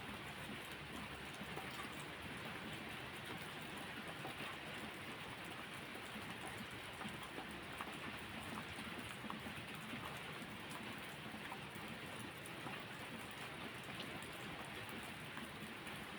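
Steady rain falling on a surface, an even hiss with scattered small ticks of individual drops.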